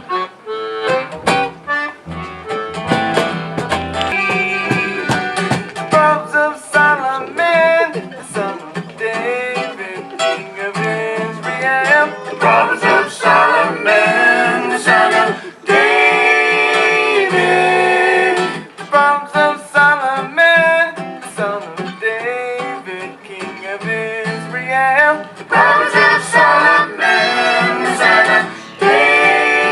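Live acoustic country band playing: strummed and picked acoustic guitar with a voice singing, the singing held on long notes in places.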